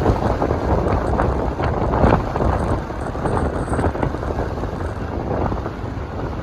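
Wind buffeting the microphone: a loud, dense rumble that swells and dips in gusts, with no clear engine note above it.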